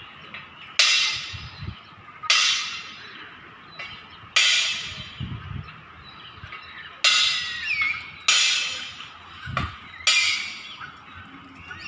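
Loud bird calls, six in all, each starting abruptly and fading within about a second, spaced one to three seconds apart.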